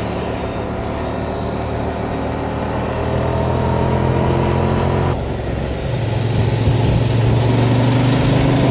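Honda Transalp twin-cylinder motorcycle engine running under way, its pitch climbing slowly as it pulls. About five seconds in the sound changes abruptly, losing its hiss, and the engine then runs steady and a little louder.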